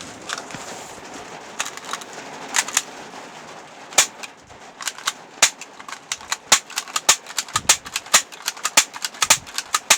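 Large raindrops striking the van's metal body, sharp separate taps over a soft hiss of rain, a few at first and coming faster and more irregularly from about four seconds in as the downpour starts.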